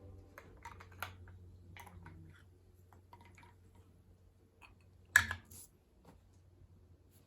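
Quiet small handling sounds: scattered light clicks and taps, with one sharper knock about five seconds in, over a faint low hum.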